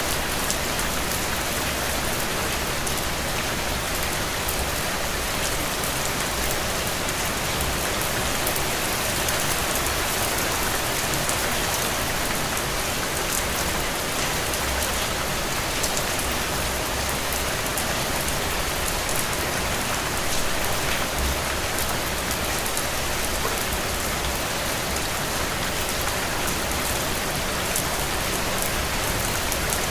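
Steady rain pattering on a window, an even hiss of rainfall with a scatter of individual drop ticks.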